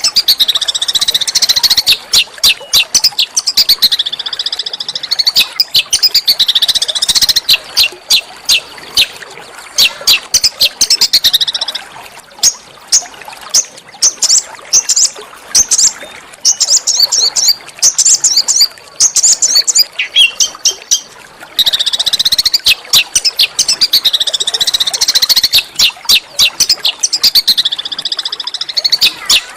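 Small songbird singing a loud, fast, harsh chatter of high chirps and trills. Near the middle it gives way to a run of separate sharp chirps, and about twenty seconds in the opening phrase pattern starts over, as in a looped recording.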